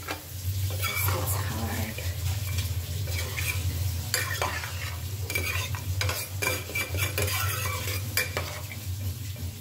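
Mutton curry frying in ghee in a pot, sizzling while it is stirred, with a utensil scraping and clicking against the pot many times.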